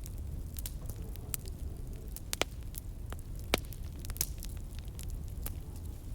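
Wood fire in a fireplace crackling, with a steady low rumble under scattered sharp pops and snaps; two pops about two and a half and three and a half seconds in stand out as the loudest.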